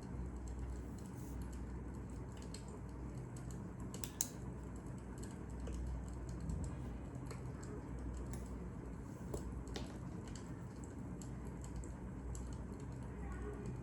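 Fire crackling: small pops and snaps at uneven intervals over a low steady rumble, with one sharper snap about four seconds in.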